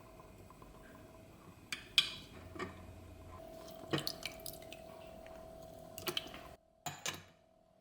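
Several sharp little clicks at irregular spacing over a faint steady hum, the loudest about two seconds in.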